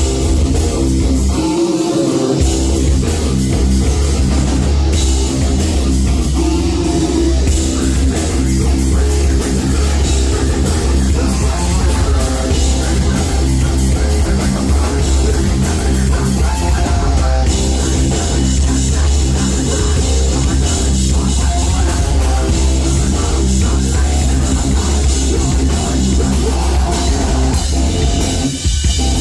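Heavy metal band playing live, loud, with distorted guitars, bass and drums. There is a brief break about two seconds in and another just before the end.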